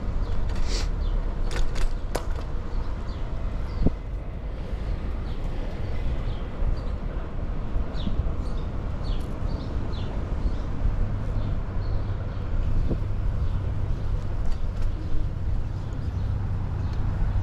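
Urban outdoor ambience: a steady low rumble of traffic and wind, with a few sharp clicks in the first couple of seconds, a single knock about four seconds in, and a scatter of short high chirps near the middle.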